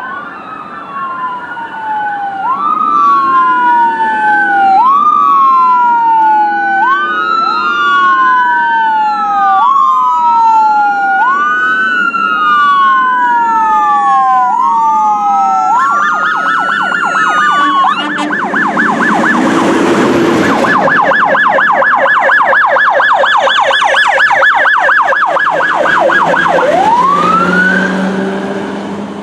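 Two fire apparatus sirens responding code 3. For about sixteen seconds they overlap in a slow rising-and-falling wail, then switch to a fast yelp. A loud rushing noise swells and fades around the twentieth second as the trucks pass. Near the end one siren winds up again.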